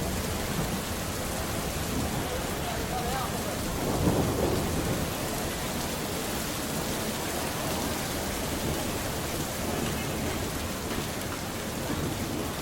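Steady rain hissing down, with thunder rumbling: a loud rumble fades away at the start and a smaller, distant roll swells and fades about four seconds in.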